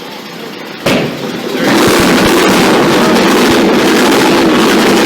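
A sharp crack about a second in, then a loud, rough, continuous noise from a motorcycle engine running hard.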